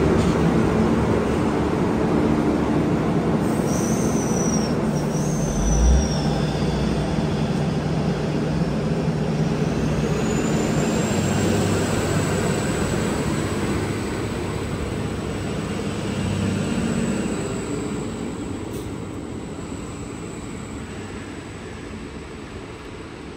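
Diesel train running through the station and fading away, its rumble dropping off steadily toward the end. Two short high squeals come a few seconds in, and a thin high whine holds from about ten seconds in.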